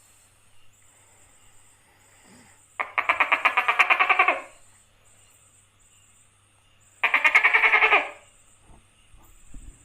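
Tokay gecko giving two rapidly pulsed calls, each about a second and a half long, a few seconds apart.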